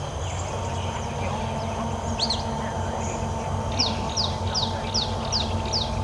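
A bird calling: a couple of quick chirps, then a run of short, high, falling whistled notes, about two and a half a second, over a steady low outdoor rumble.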